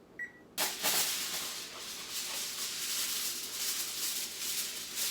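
An oven's control panel gives a short electronic beep as it is set to preheat, then a long spell of loud rustling handling noise follows.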